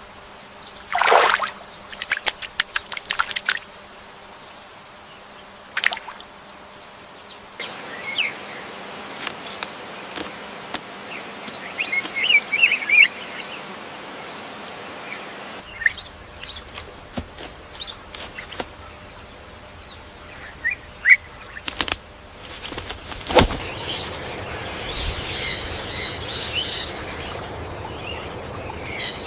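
Rainforest bird ambience: assorted short bird chirps and calls over a soft background hiss, with a loud falling call about a second in and runs of sharp clicks. The background changes abruptly several times, with a flurry of high chirps near the end.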